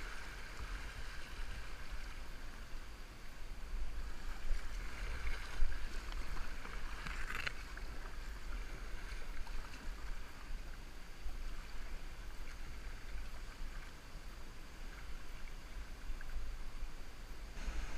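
River water running, heard muffled through a GoPro's waterproof housing as a steady hiss, with one brief sharper sound about seven and a half seconds in.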